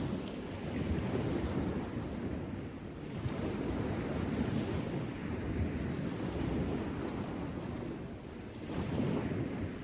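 Wind buffeting the microphone: a rough, low rumble that swells and eases in gusts.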